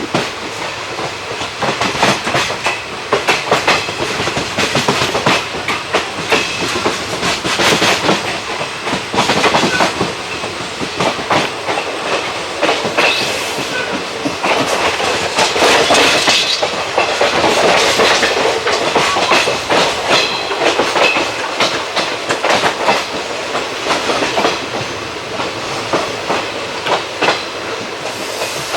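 ICF passenger coaches running on the line, wheels clacking rapidly and unevenly over rail joints over a continuous rumble, louder for a few seconds around the middle.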